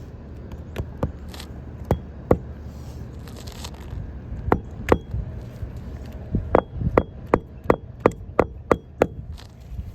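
Hammer driving roofing nails through an architectural asphalt shingle. A few separate blows come first, then a quick run of about eight even strikes, roughly three a second, in the second half.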